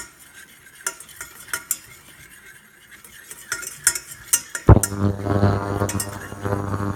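A spoon stirring flour into melted butter in a saucepan for a roux, with scattered clicks and knocks of the utensil against the pan and a light sizzle. About two-thirds of the way in, a steady low hum starts and carries on to the end.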